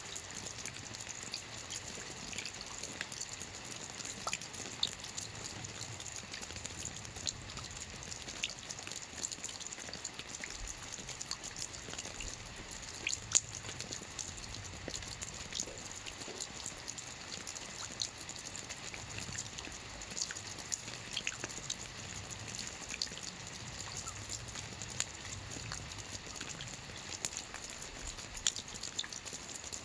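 Soft rain falling on a roof: a steady light hiss with many small, separate drops ticking throughout.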